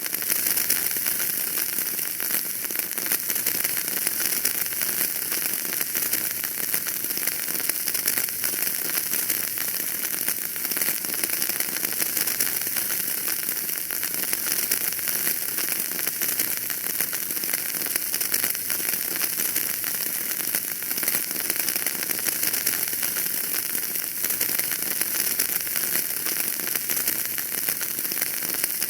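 Wood fire burning in a fireplace, crackling steadily with a dense run of small pops over a soft hiss.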